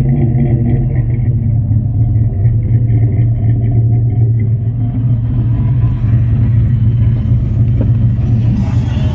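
Dodge Ram's 318 Magnum (5.2 L) V8 idling steadily through Flowmaster 40 series mufflers, a deep, even exhaust rumble. A hiss joins about halfway through.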